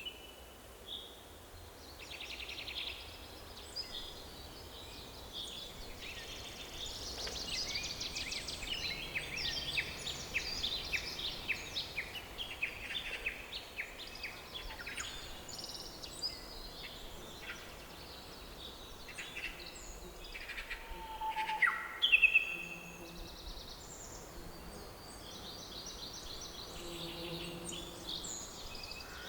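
Several birds singing and chirping together, a busy chorus of short trills and calls, over a faint steady background hiss. A burst of louder chirps comes about three-quarters of the way through.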